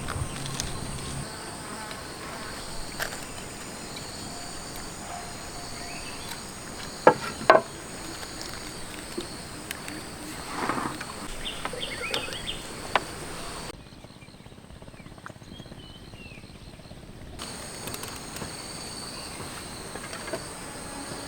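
Insects buzzing in a steady high drone, with two sharp knocks about seven seconds in and a few smaller handling noises after. The drone drops out for a few seconds past the middle, then returns.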